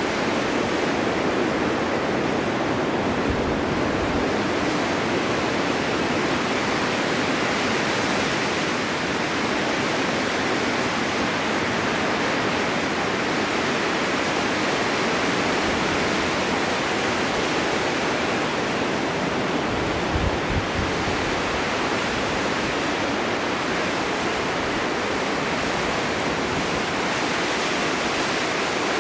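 Snowstorm wind blowing steadily in a continuous rush, swelling and easing slightly, with a brief low thump about twenty seconds in.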